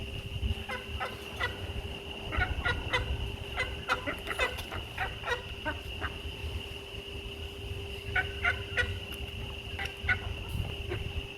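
Animal calls: runs of short, quick, pitched calls repeated in clusters, over a steady high-pitched whine.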